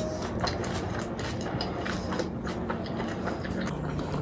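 Close-miked chewing of a mouthful of food, with irregular wet mouth clicks and small crunches.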